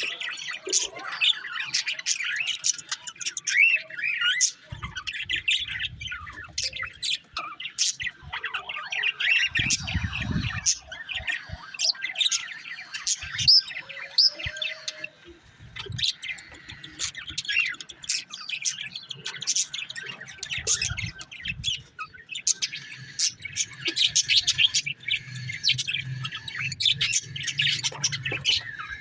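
Caged pet birds chirping and squawking in a continuous, overlapping chatter, with a short lull midway.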